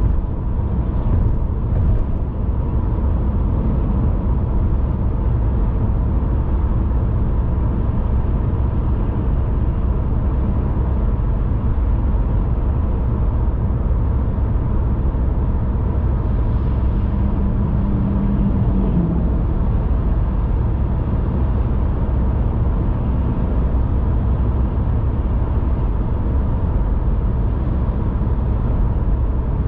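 Car driving at a steady speed: an even, unbroken low rumble of road and engine noise.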